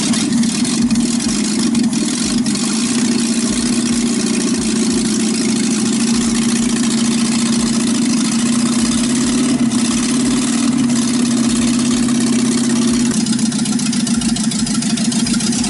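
Moskvich 2140's UZAM-412 inline-four engine running steadily on its first start after a cylinder-head rebuild, with no muffler fitted, so the open exhaust is loud.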